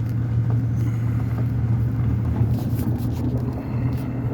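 Pickup truck engine and road rumble heard from inside the cab, a steady low hum at slow speed on an unpaved forest road, with a few faint rattles or clicks.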